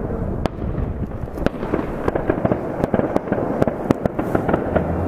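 Many fireworks going off at once: a dense, irregular run of sharp bangs and pops, several a second, over a steady din.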